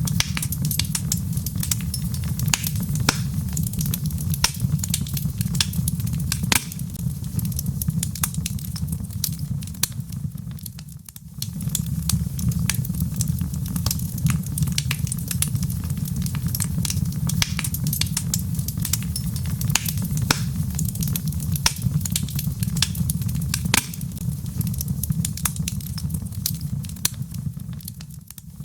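Wood fire burning in a fireplace: a steady low roar of flame with many sharp crackles and pops from the logs. The sound dips briefly about eleven seconds in and again near the end, then returns.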